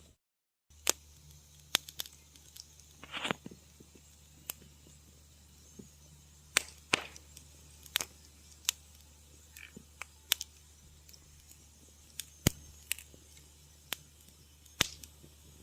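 Wood fire crackling in a fireplace: scattered sharp pops and snaps, a dozen or so, with a short hissing sputter about three seconds in, over a faint low hum. The sound cuts out completely for under a second right at the start.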